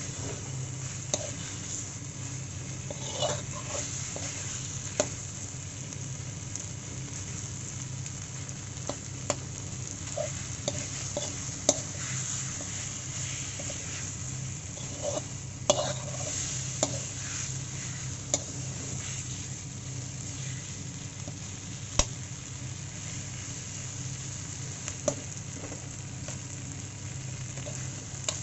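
Spice masala and boiled potato pieces sizzling in a pan while a metal spatula stirs and scrapes them, with sharp clicks of the spatula against the pan every few seconds; a low steady hum sits underneath. This is the masala being fried down (kashano) with the potatoes.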